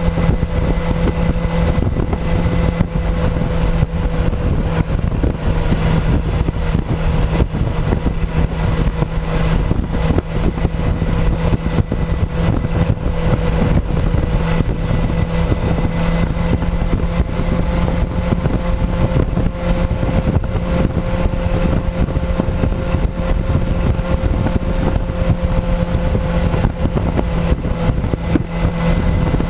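Motorcycle engine running at a near-steady pitch under way, over a constant low rumble.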